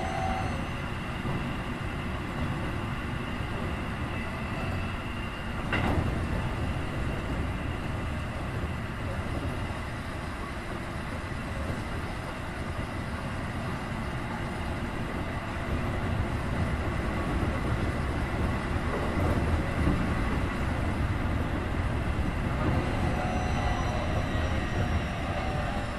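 Running sound inside a Keikyu 1500 series car with refurbished Mitsubishi IGBT-VVVF equipment: rumble of wheels on rail under steady high-pitched tones from the drive. A single knock comes about six seconds in, the running noise grows louder from about two-thirds of the way through, and near the end the drive's tones begin to slide in pitch.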